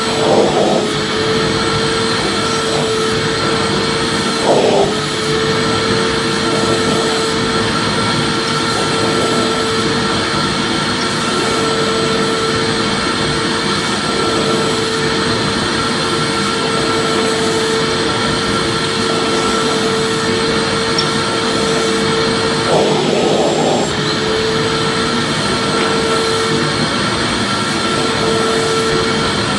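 Vacuum cleaner motor running steadily: a continuous rushing hum with a steady whine over it. A few brief bumps come through, about half a second in, at about four and a half seconds, and around 23 seconds in.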